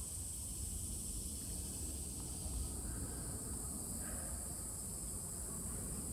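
Steady high-pitched insect chorus, with a low rumble of wind or handling noise underneath.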